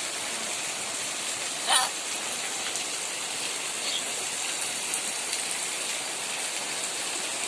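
Heavy rain falling steadily, a dense even hiss of rain on surfaces, with one brief sharp sound a little under two seconds in.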